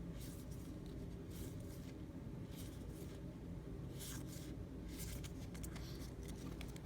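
Faint, scattered rustling and sliding of paper baseball cards being handled, a few soft brushes a second or so apart over a low room hum.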